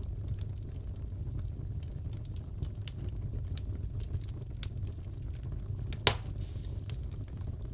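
Crackling fireplace: a steady low rumble of burning with frequent small crackles and one louder pop about six seconds in.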